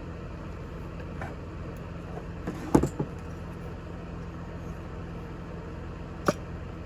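Pull-start recoil starter of a nitro RC buggy engine being pulled and jamming because its mounting screw is overtightened: a couple of sharp knocks about three seconds in and a single sharp click near the end, over a steady low hum.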